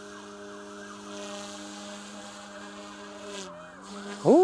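Goosky S2 MAX Legend RC helicopter hovering in idle up 2, its electric motor and main rotor giving a steady whine. The pitch dips briefly about three and a half seconds in.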